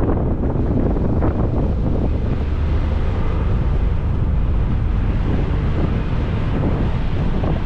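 Wind buffeting the microphone over the steady low rumble of a ferry under way.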